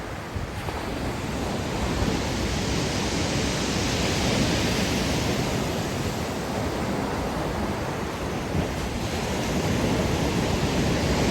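Sea surf washing onto the beach: a steady rush of breaking waves that swells and eases, with some wind on the microphone.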